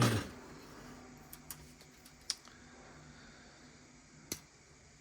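A few short, sharp clicks of plastic model-kit parts and sprue being handled or snipped on the work bench, four in all, the loudest two about two and four seconds in, over a faint steady hum.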